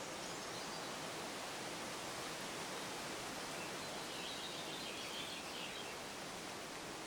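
Outdoor ambience with a steady hiss. A bird gives a faint short run of quick high notes about four seconds in, after a brief high call at the start.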